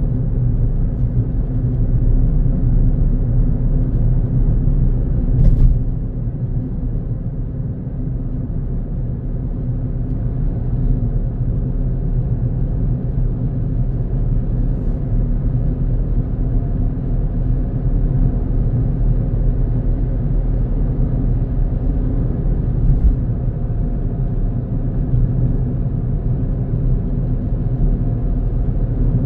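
Car driving along a road: a steady low rumble of engine and tyres, with a sharp click about five seconds in and a fainter one later.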